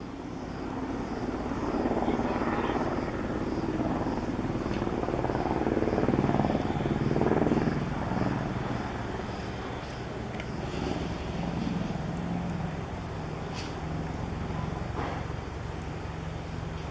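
Eurocopter AS350 Esquilo (Écureuil) helicopter running, its rotor and turbine making a continuous rumble with a steady low tone. It grows louder over the first few seconds, peaks about seven seconds in, then eases a little and holds steady.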